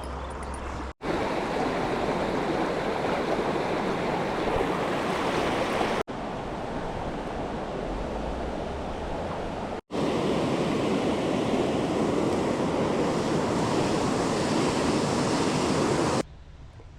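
Steady rush of water from a fast-flowing mountain river. It is broken by abrupt cuts about a second, six and ten seconds in, and falls much quieter near the end.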